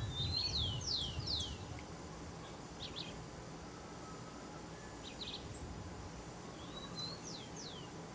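Bird calls: a quick run of high, downward-sweeping whistled notes near the start, short chirps around the middle, and another run of falling notes near the end, over steady outdoor background noise.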